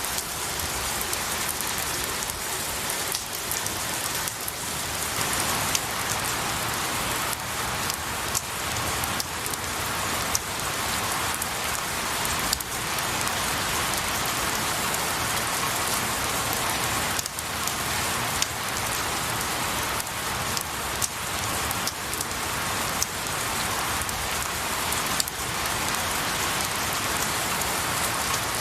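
Steady rain falling on pine needles and trees, an even hiss scattered with individual drops and a few louder drips.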